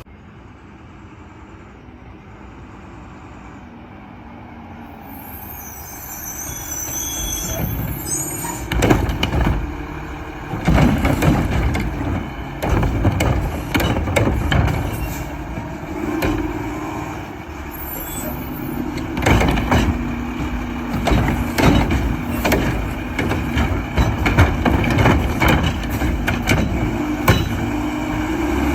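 Mack garbage truck with a Heil automated arm working a cart. The diesel engine runs under load while repeated clanks and bangs start about eight seconds in.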